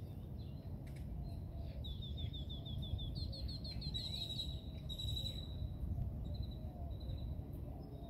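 A songbird singing: starting about two seconds in, a quick run of repeated down-slurred notes, then a few separate higher notes. A steady low rumble runs underneath.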